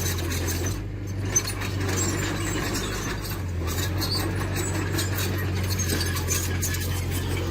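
Diesel engine of heavy earthmoving machinery running steadily, with scattered light metallic clinks and rattles and one sharp knock a little over a second in.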